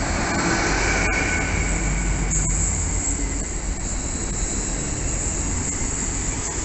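GWR Hitachi Intercity Express Train moving slowly along the platform, with a steady low rumble and running noise. A thin high squeal, typical of wheels on the rails, sounds in the first second or so.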